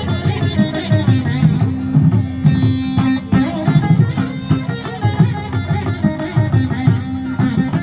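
Carnatic-style music played on a veena, plucked melody over a steady drone, with hand-drum accompaniment keeping a rhythm.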